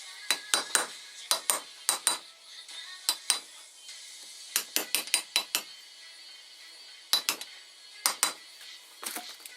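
Irregular sharp metallic clinks and taps, often in quick groups of two or three, from tools and steel parts of a mini excavator's hydraulic swing motor being handled during repair.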